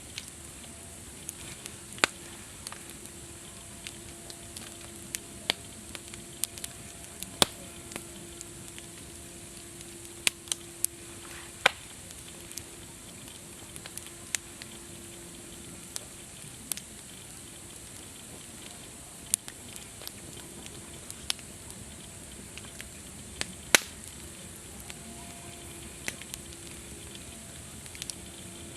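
Campfire burning with a steady hiss and irregular sharp crackles and pops of burning wood, a loud pop every second or two. A faint low tone comes and goes underneath.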